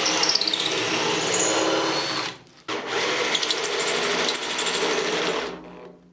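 Power drill spinning a hex-shank drill bit through an offset-angle bit driver, drilling excess galvanising zinc out of a hole. It runs in two long bursts, stops briefly a little over two seconds in, and winds down near the end.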